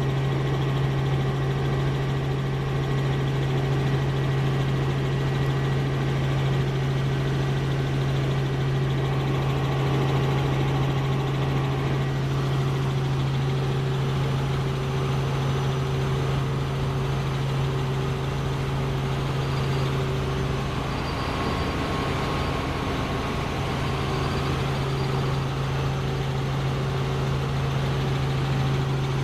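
Helicopter running with a steady, unchanging drone.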